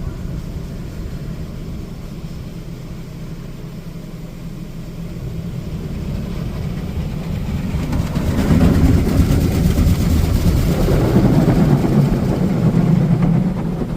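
Touchless car wash high-pressure rinse heard from inside the car: a steady low hum at first, then water spray hitting the car, which builds about halfway through and stays loud until it eases off near the end.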